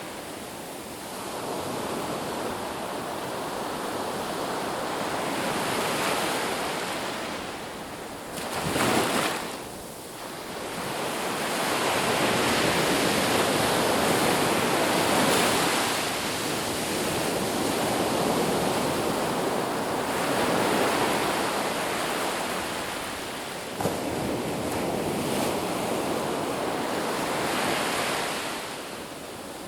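Ocean surf washing onto a beach, a steady rush that swells and ebbs as waves come in, with one short louder surge about nine seconds in.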